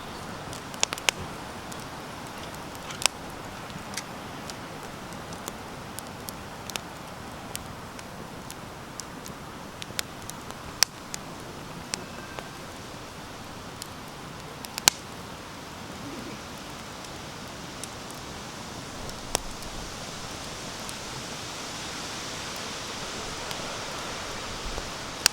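Campfire of sawtooth oak (kunugi) firewood burning, a steady hiss broken by irregular sharp crackles and pops, a few of them louder.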